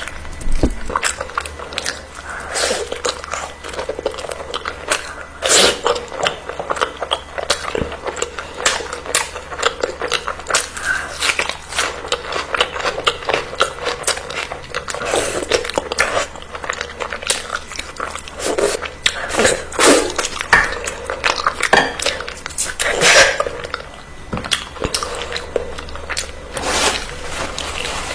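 A person eating close to the microphone: irregular biting and chewing, many short wet clicks and smacks.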